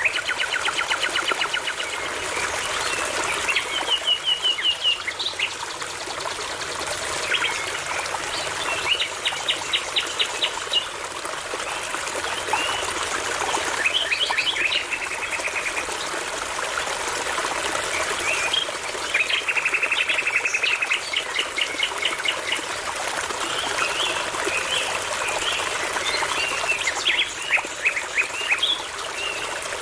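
Songbirds singing over a babbling brook: trilled phrases of rapid, evenly repeated notes come every few seconds, over the steady running of the water.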